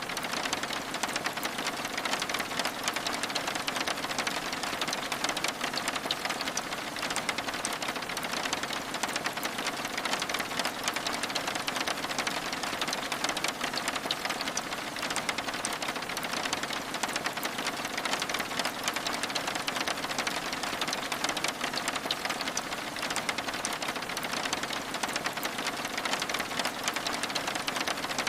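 Steady rain on window glass: a dense, even patter of countless drops with a hiss, never letting up.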